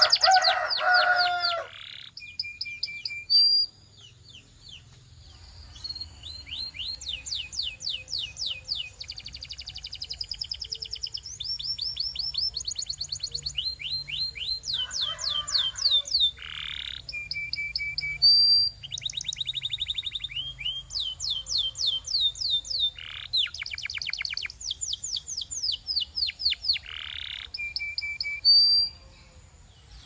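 Domestic canary singing a long song of rapid trills, each a run of quickly repeated notes, changing speed and pitch from phrase to phrase with brief pauses.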